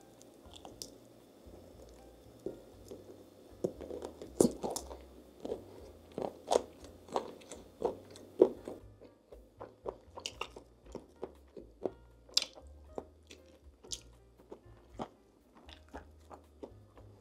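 Close-miked eating of crunchy food: a run of sharp crunching bites and chewing, densest and loudest in the middle, then slower chewing.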